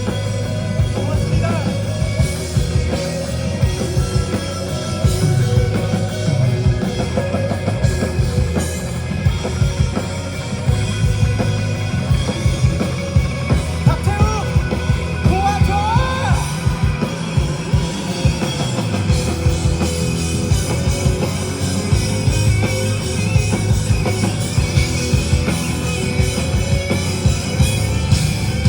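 Live rock band playing loud and without a break: drum kit and guitars, with singing in places.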